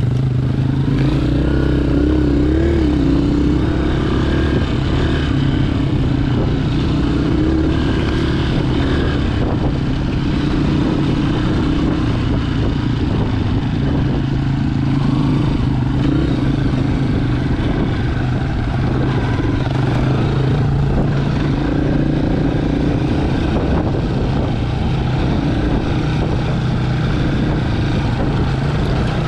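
Honda CRF230F's single-cylinder four-stroke engine running steadily as the dirt bike is ridden, its pitch rising and falling a little with the throttle.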